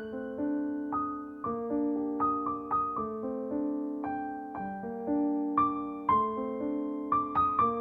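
Gentle background piano music: single struck notes in a slow, soft melody, each ringing and fading before the next.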